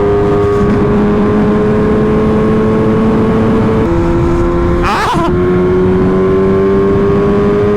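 Motorcycle engine running under way, its pitch slowly climbing, dropping suddenly about four seconds in as it shifts up a gear, then climbing again. A steady rush of noise runs underneath, and a brief burst of noise comes about five seconds in.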